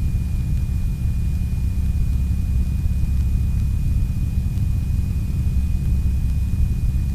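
North American T-6 Texan's nine-cylinder Pratt & Whitney R-1340 radial engine running steadily at low power, a deep even rumble, with a faint steady high-pitched tone above it.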